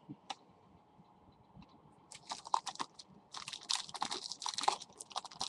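Trading cards and packaging being handled by hand: crisp rustling and clicking that starts about two seconds in and comes in quick runs.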